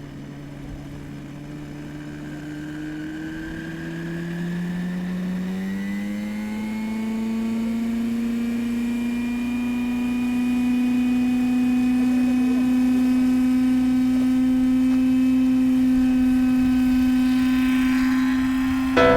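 Glow-fuel engine of an MD-530 scale RC helicopter speeding up, its pitch and loudness rising over the first several seconds, then running steady and loud at high speed.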